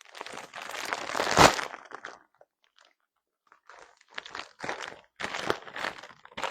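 Irregular crunching and rustling close to a phone's microphone: one long loud stretch at the start, then a run of shorter crunches.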